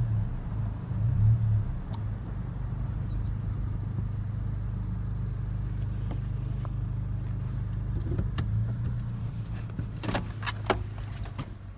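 A car engine idling with a steady low hum, heard from the car. A few light clicks come about ten seconds in, and the hum drops off at the very end.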